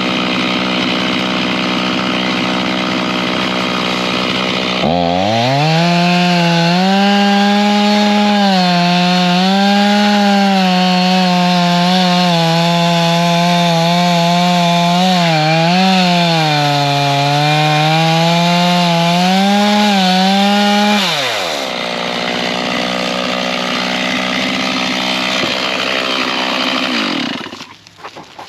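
Stihl chainsaw revving up about five seconds in and running at full throttle, its pitch dipping and recovering as it cuts into a log, then let off to idle after about sixteen seconds. A steady engine runs underneath and cuts back sharply near the end.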